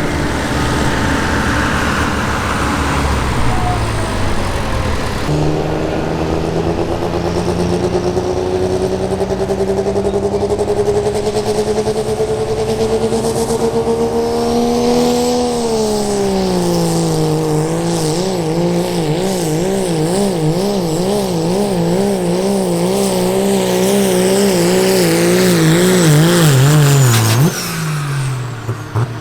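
A diesel pickup's engine at full throttle pulling a sled. Its note climbs steadily for about ten seconds, then sags under the load and wavers rapidly up and down before dropping away sharply near the end as the throttle is let off.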